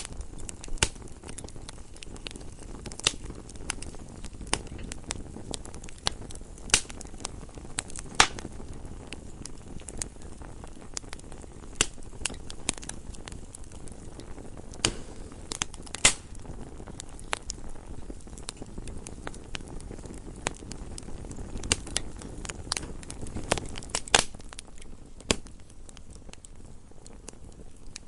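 Wood fire burning in a fireplace: a low steady hiss of the flames with irregular crackles and sharp pops, several louder pops scattered through.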